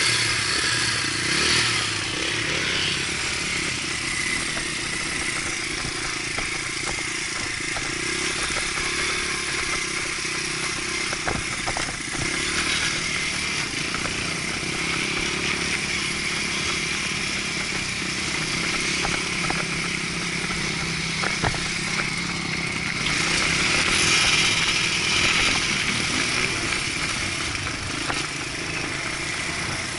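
Dirt bike engine running continuously, its level rising and falling and swelling loudest about three quarters of the way through.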